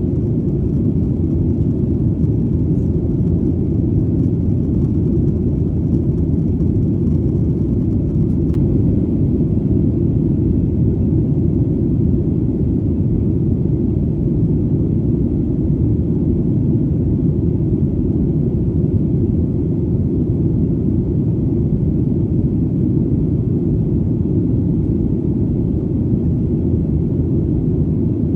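Steady, low airplane engine rumble, as heard in flight, with the sound lying entirely in the deep range and not changing.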